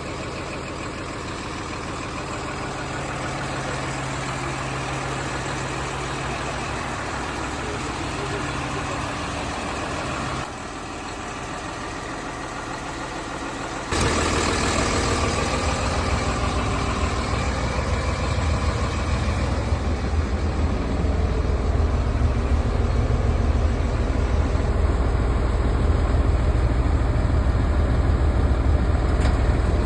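Refuse truck engine running at a steady idle; about 14 seconds in it abruptly gets louder and deeper, and then holds steady.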